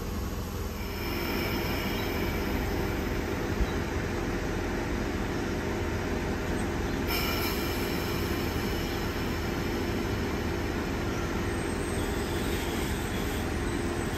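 Double-deck electric suburban train rolling slowly along the platform, with a steady rumble and a high-pitched squeal from the wheels. The squeal starts about a second in and grows stronger about halfway through.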